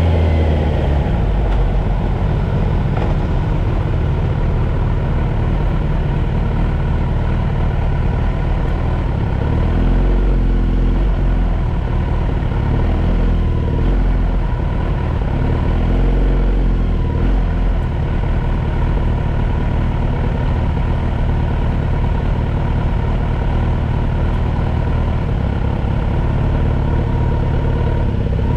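Car engine heard from inside the cabin, dropping in pitch as the car slows in the first second or so, then idling steadily at a stop.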